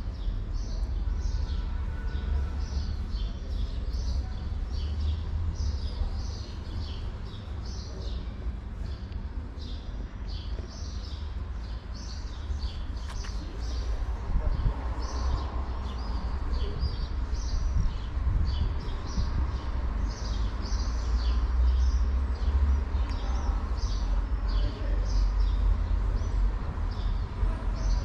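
Small birds chirping repeatedly in short high notes, about twice a second, over a steady low rumble.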